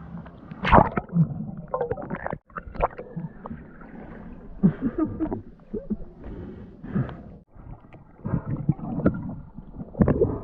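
Muffled splashing and gurgling water around a diver in a river, coming in irregular surges with two brief dropouts.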